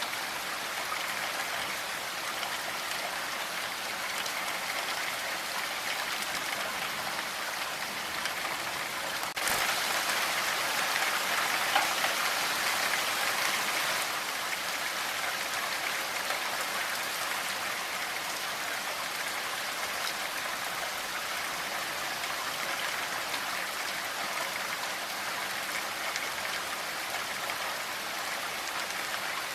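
Steady rain falling, an even hiss of drops on surfaces. About nine seconds in it suddenly gets louder and heavier for a few seconds, then eases back to the same steady fall.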